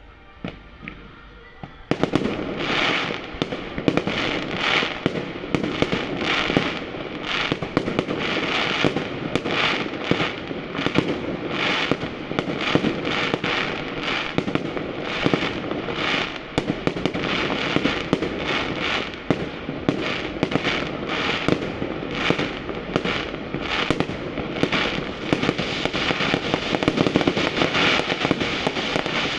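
Fireworks display: after a quieter moment with a single pop, a dense barrage of rapid bangs and crackling starts about two seconds in and carries on without a break.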